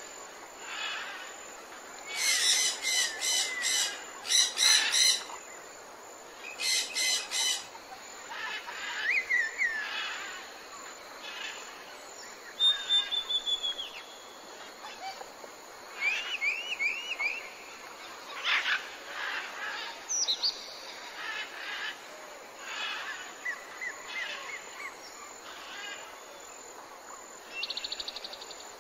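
Several birds singing and calling together: bursts of fast trills, short chirps and quick sliding whistles, one after another, over a faint steady hiss.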